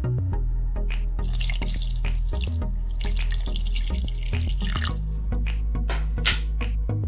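Water poured from a container into a pot of rice, splashing as it fills for about four seconds, starting about a second in and stopping about five seconds in.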